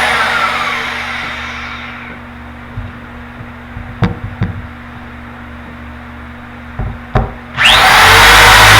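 Power drill spinning down as the trigger is released, a few sharp clicks while it is stopped, then starting up suddenly and rising to full speed near the end, drilling holes in a fiberglass shower base.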